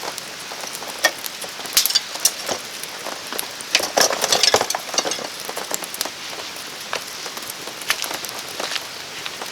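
Wood campfire crackling and snapping in irregular sharp pops, with a brief flurry of louder crackles about four seconds in, over steady rain pattering.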